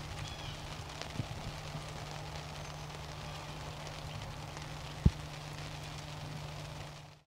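Steady rain hissing and pattering over a low steady hum, with a small knock about a second in and one sharp, loud knock about five seconds in; it fades out at the end.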